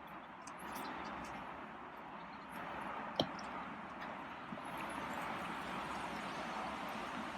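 Steady outdoor background hiss with a few faint ticks near the start and one sharp click about three seconds in.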